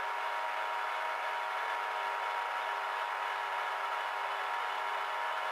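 Milling machine running steadily, its spindle turning a brazed-insert cutter, with a constant hum of several steady tones.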